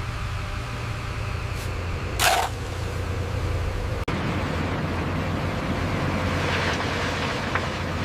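A heavy construction machine's diesel engine running steadily, with a short hiss about two seconds in.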